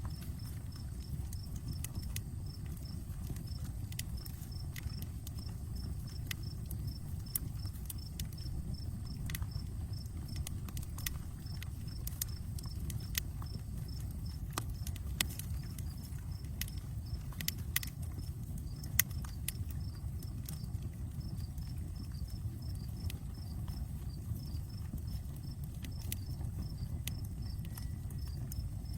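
Outdoor wood campfire crackling, with sharp irregular pops and snaps over a low steady rumble, one louder pop about two-thirds of the way through. A cricket chirps steadily in the background.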